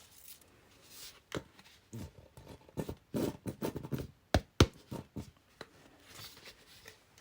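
Paper and craft materials being handled on a work table: irregular rustling and scraping, with two sharp taps close together about four and a half seconds in.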